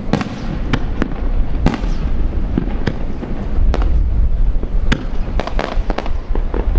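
Aerial fireworks shells bursting one after another, about a dozen sharp bangs at uneven intervals over a continuous low rumble.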